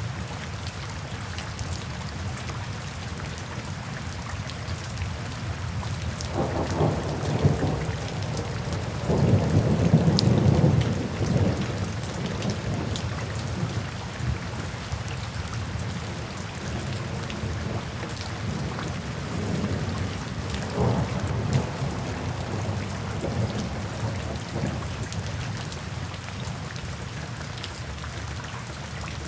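Steady rain falling, with thunder rolling through it: a deep rumble about a third of the way in that is the loudest part, and weaker rumbles later on.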